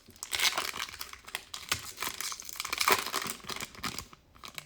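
Foil trading-card pack wrapper crinkling and tearing as it is ripped open, with irregular crackles and clicks as the cards are handled.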